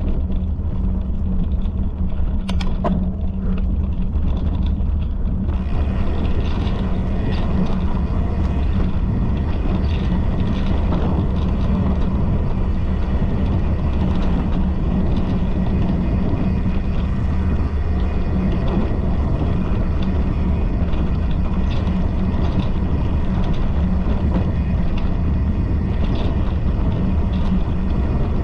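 Steady low rumble with a hiss on top and scattered faint knocks; the hiss turns brighter about five seconds in.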